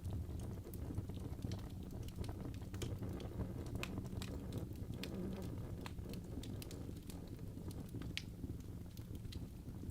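Burning logs in a fireplace crackling, with irregular sharp pops and snaps over the low steady rumble of the flames; a few pops stand out louder.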